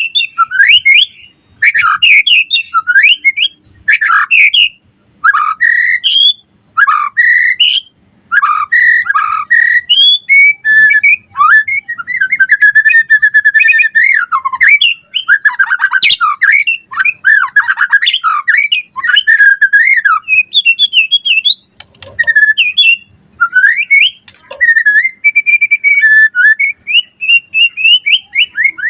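White-rumped shama singing a loud, varied song of whistled phrases. Short separate phrases give way to a long unbroken run of fast warbling in the middle, then to short phrases again.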